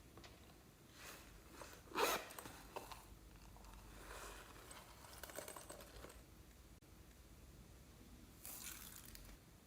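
Slime being worked by hand, with faint sticky crackling and squishing and one louder squish about two seconds in.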